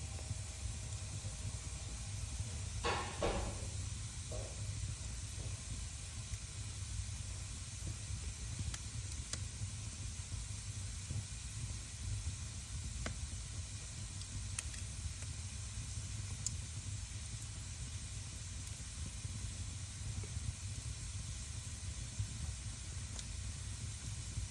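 Wood fire burning in a fireplace: a steady low rumble with scattered sharp crackles, and a brief louder hiss about three seconds in.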